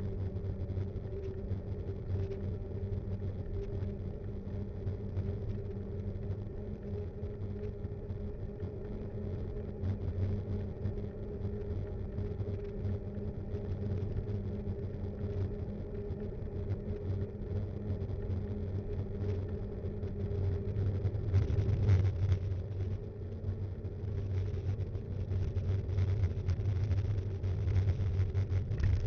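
Mountain bike rolling along a road: a steady rumble and hum of tyres and vibration that grows louder from about two-thirds of the way in.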